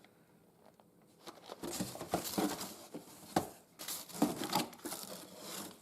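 Irregular bursts of rustling and crinkling handling noise, starting about a second in.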